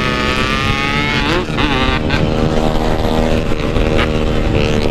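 Yamaha RX-King 135cc single-cylinder two-stroke engine running loud. The revs dip and rise quickly a couple of times about a second and a half in, then hold steady.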